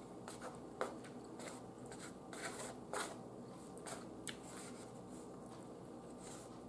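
A person chewing a mouthful of pork steak, with scattered soft mouth clicks and smacks, the sharpest just under a second in and about three seconds in.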